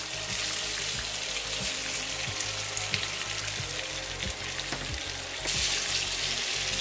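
Hot oil sizzling in a frying pan as steamed bottle-gourd muthiya pieces go into a tempering of mustard and sesame seeds, with scattered short pops. The sizzle grows louder about five and a half seconds in as a spatula starts turning the pieces.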